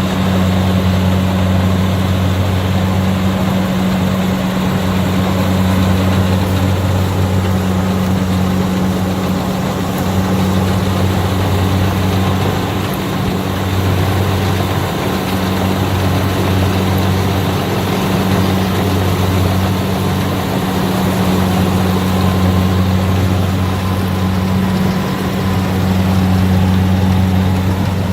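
Kubota DC60 combine harvester running steadily with a low diesel hum and mechanical clatter as it harvests lodged rice.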